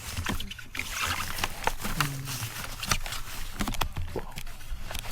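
Mountain bike rattling and clattering over a wet, rain-soaked trail, with splashing water and irregular knocks from the bike and the ground. A short falling tone sounds about two seconds in.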